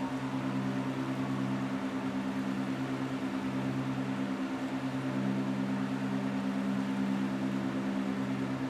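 Steady rain hiss laid over a low humming drone of several held tones, one of them fluttering quickly.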